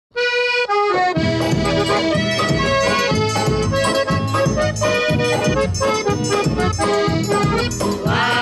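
Instrumental intro of a Brazilian festa junina song: an accordion plays the melody in held notes, and a low drum-and-bass beat comes in about a second in.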